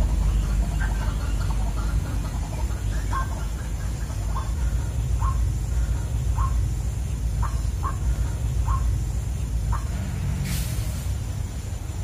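Short bird calls repeated about once a second over a low, steady rumble, with a brief hiss near the end.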